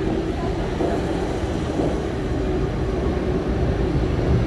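Double-deck RER C commuter train moving past along a station platform: a steady rumble of wheels on rails with a low humming tone over it, growing a little louder near the end.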